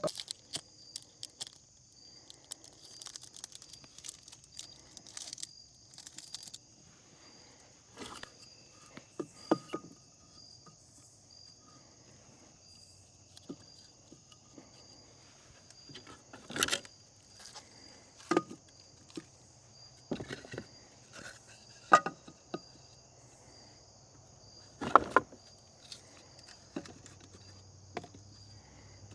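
Pieces of firewood being handled and set in place, with scattered knocks and clatters, four of them louder. Under them runs a steady, evenly pulsing high chirping of insects.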